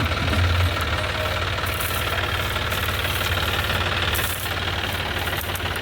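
John Deere tractor's diesel engine running steadily with a fast, even throb, mixed with the dense mechanical clatter of the Raja straw reaper it is powering.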